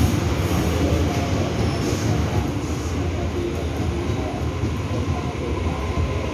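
Passenger train running alongside a station platform: a steady, dense low rumble of wheels and cars.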